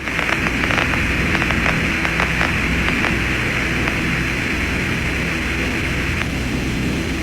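Steady radio static hiss, thin and band-limited like a voice channel, with a low hum underneath and scattered crackling clicks in the first couple of seconds.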